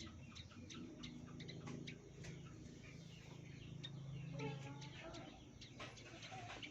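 Bird chirping in many short, rapid, sharp notes, faint, over a steady low hum.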